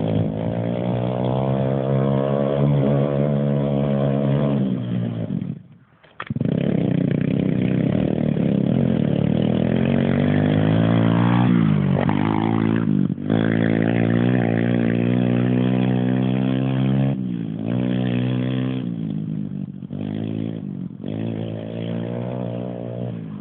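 Pit bike's small single-cylinder engine running with a steady note, which drops out almost completely for about half a second around six seconds in, then comes back. Its pitch swings up and down around the middle as it is revved, and it dips briefly a few more times near the end.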